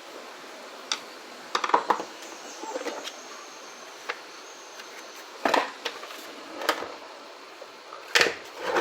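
Scattered clicks and knocks of plastic parts and screws being handled while a vacuum cleaner's housing is taken apart, with a steady hiss under them.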